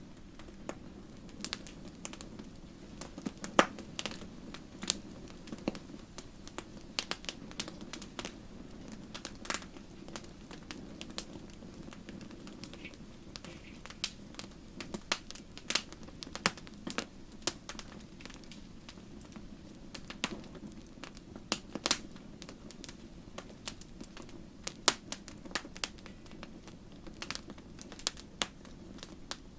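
Wood campfire burning and crackling: irregular sharp pops and snaps over a steady low rush of flame.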